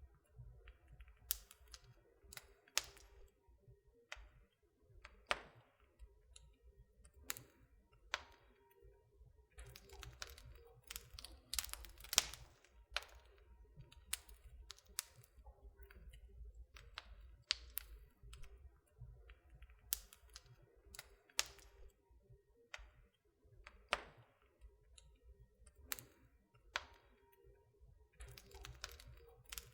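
Wood fire in a fireplace crackling, with irregular sharp pops and snaps over a faint low rumble.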